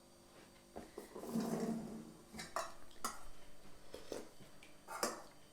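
Kitchen clatter: pots, dishes and utensils knocking against each other about six times, with a longer scraping, shuffling sound from about one to two seconds in.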